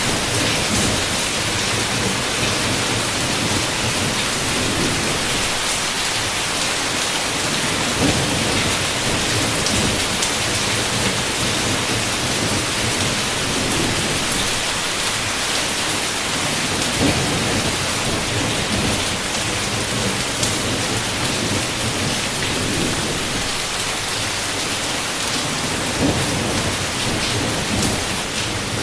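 Heavy rain pouring steadily against a window, with low rumbles of distant thunder rolling underneath and a few sharper drop hits.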